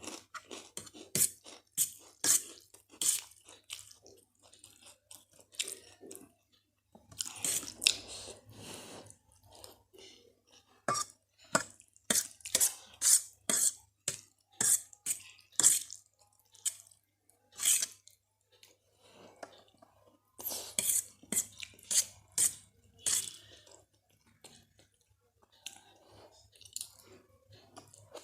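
Close-miked mukbang eating: wet chewing and mouth smacks on spicy Maggi noodles with Kurkure, mixed with cutlery clinking and scraping on a dish. The sounds come as irregular sharp clicks, with two longer, busier stretches.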